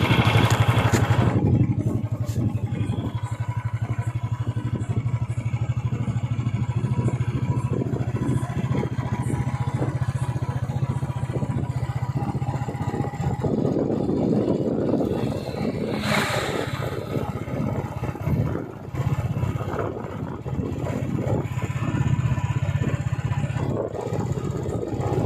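Royal Enfield motorcycle engine running with a steady, dense exhaust beat. It is loudest in the first couple of seconds, and a short hiss passes about sixteen seconds in.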